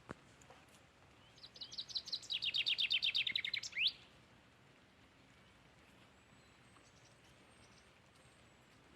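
A small songbird sings one rapid trill of about two and a half seconds: a quick string of short high notes that steps down in pitch and ends on a sharp rising note.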